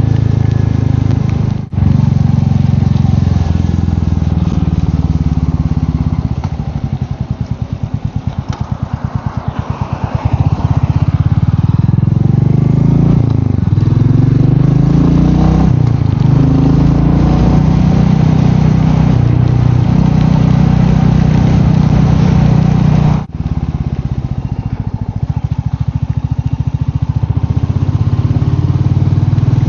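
Royal Enfield Meteor 350's single-cylinder engine running under way, heard from the moving bike. About six seconds in it drops quieter with an uneven pulse as the rider eases off, then from about ten seconds it picks up again, the pitch rising through the gears. The sound briefly cuts out twice.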